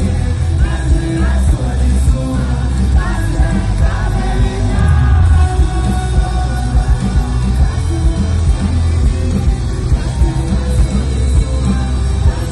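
Rock music with a singer over a heavy bass and drums.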